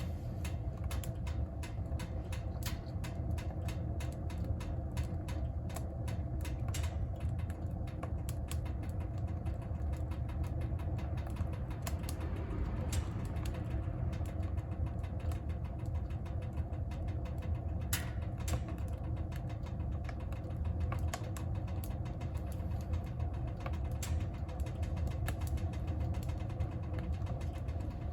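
Wood fire burning in a wood stove: a steady low rumble of the fire with frequent crackles and pops of the burning wood, a few louder pops along the way.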